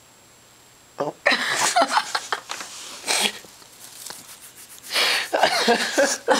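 Sleeping dog snoring loudly: two long snores, the first starting about a second in and the second near the end.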